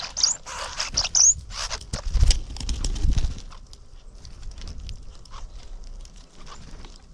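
Backyard birds: two short, high chirps in the first second and a half among many small clicks and scratches, with a low rumble a couple of seconds in.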